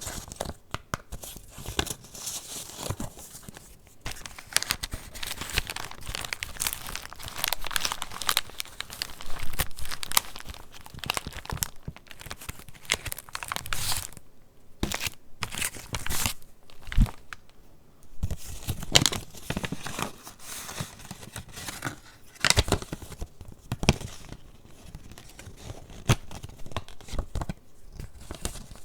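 Paper pages of a handmade junk journal being handled and turned, with irregular rustling, crinkling and sharp paper snaps.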